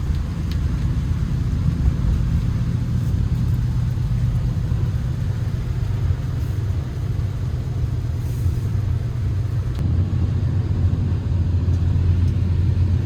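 Motor vehicle running: a steady low engine and road rumble, whose pitch drops to a lower note about ten seconds in.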